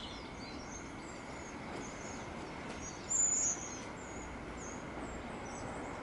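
Small birds chirping and twittering in short high calls, one louder chirp about three seconds in, over a steady background hiss.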